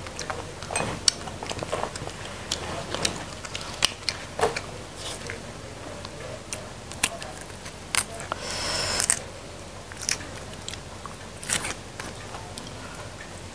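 A person biting and chewing raw leucaena (petai cina) pods: scattered crisp crunches and wet mouth clicks, with a brief louder scraping rustle about nine seconds in.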